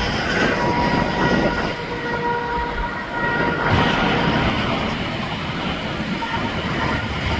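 Heavy interstate traffic passing at speed: a steady rumble and rush of tyres and engines, with a faint steady whine above it that swells and dips as vehicles go by.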